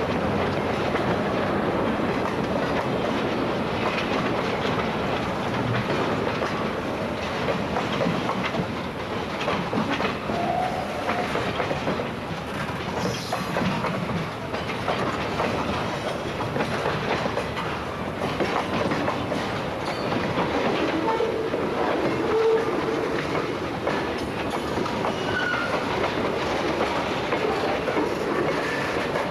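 Freight train rolling past, its wheels clicking over the rail joints amid a steady rumble and rattle of the cars. A few short, faint wheel squeals come in the second half.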